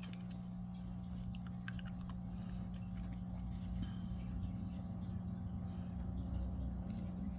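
Steady low hum throughout, with a few faint ticks and rustles from a crochet hook and yarn being worked in the first couple of seconds.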